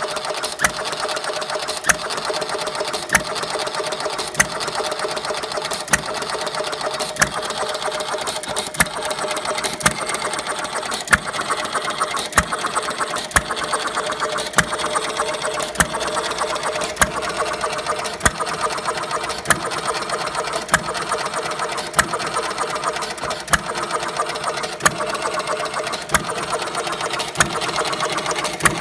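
1/3-scale Galloway hit-and-miss engine running: a steady light mechanical clatter, broken by a sharp firing bang a little more than once a second.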